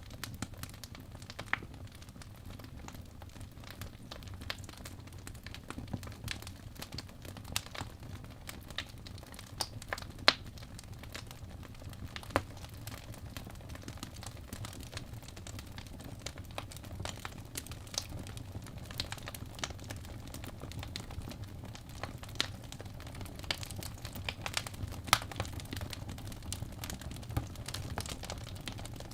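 Wood fire crackling in a fireplace: irregular sharp pops and snaps over a steady low rumble, a few pops much louder than the rest.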